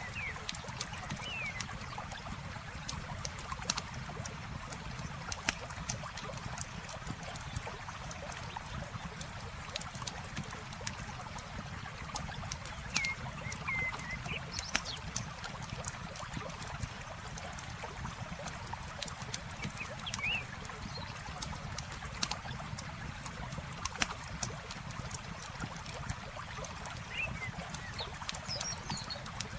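Campfire crackling with frequent sharp pops over the steady rush of a trickling stream. A few brief high bird chirps come through at scattered moments.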